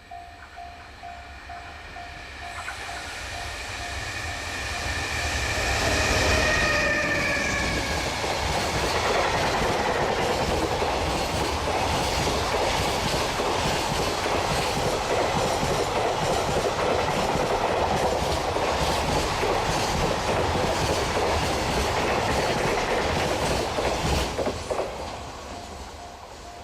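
Freight train hauled by an EH500 electric locomotive passing at speed. The locomotive's whine falls in pitch as it goes by, then the wagons' wheels click steadily over the rail joints for about fifteen seconds and stop abruptly as the last wagon passes.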